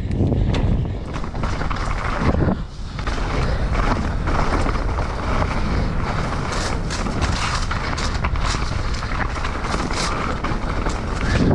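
Riding noise from a bike descending a wet, rough forest trail: tyres rolling and rumbling over roots and stones, with frequent knocks and rattles from the bike and wind buffeting the action-camera microphone.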